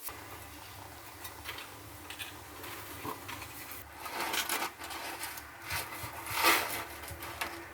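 Irregular rubbing and scraping strokes from hand work, several louder scrapes among quieter rubbing, the loudest about six and a half seconds in.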